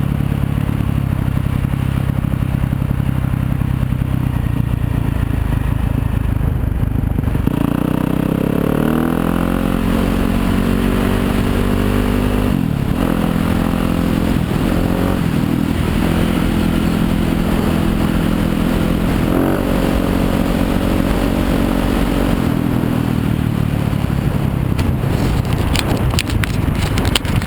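Yamaha YZ250FX 250 cc four-stroke single-cylinder engine running at low revs. About seven seconds in it revs up, with the pitch climbing and breaking at each gear change, runs steadily, then drops back to low revs. Sharp clattering knocks come in the last couple of seconds.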